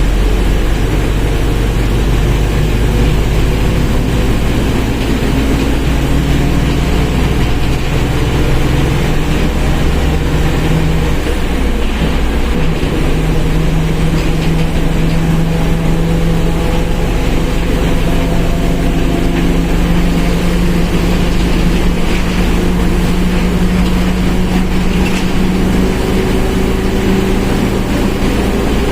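Mercedes-Benz OF 1721 BlueTec 5 bus's diesel engine running under way, a steady drone whose pitches rise and fall slowly with speed, with the whine of the rear differential audible.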